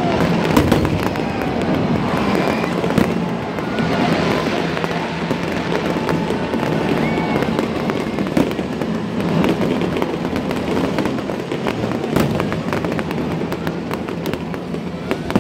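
Aerial fireworks display: shells bursting one after another, with many sharp bangs and crackles in quick succession.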